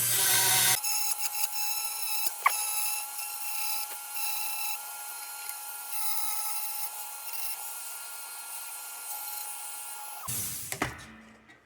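Small high-speed rotary tool whining as it cleans the corroded tin of the lantern. For about the first second it grinds against the metal with a coarse, loud noise, then runs on with a steadier, lighter whine. It stops about ten seconds in.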